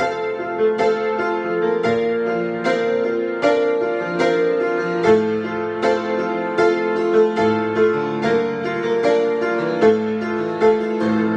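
Solo piano improvisation: chords and melody notes struck with a sustained, ringing bass beneath them.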